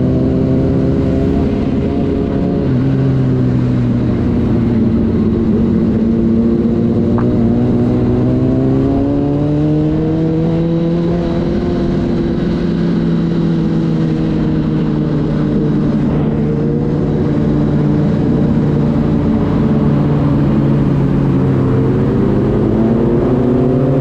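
Inline-four sport bike engines running at steady highway cruise, their pitch drifting gently up and down, with a second, lower engine note running alongside.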